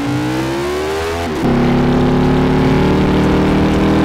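Ducati sport motorcycle's engine pulling under acceleration, its pitch rising steadily, then dropping sharply at a gear change about a second and a half in. After the shift it holds a steady, louder note.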